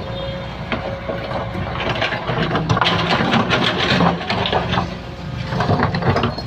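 Excavator engine running under load, with a run of scraping and knocking from about two seconds in, as the bucket works through soil and stones.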